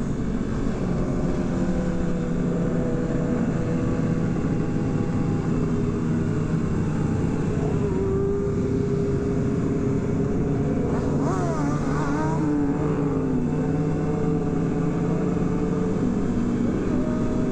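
Motorcycle engines running steadily in a group ride, with the pitch of one engine rising and falling briefly near the middle as a bike revs.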